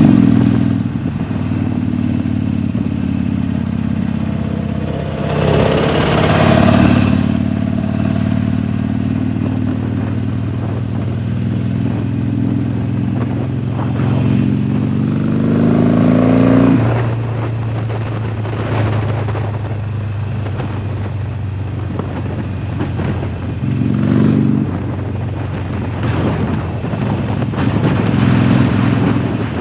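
2019 Harley-Davidson Sportster Forty-Eight's air-cooled V-twin running through a Jekill & Hyde flap exhaust on the move. Its pitch climbs under throttle several times, most clearly from about twelve to seventeen seconds in, then falls away suddenly.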